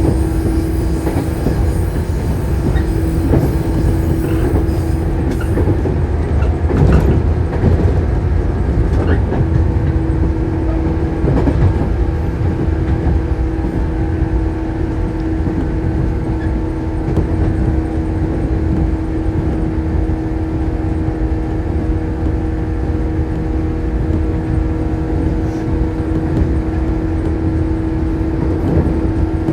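Shinano Railway 115 series electric train heard from inside the car, running at steady speed. The traction motors hum on one steady note over the low rumble of the bogies, with a few sharp knocks from the wheels over the rails, the loudest about 7 seconds in.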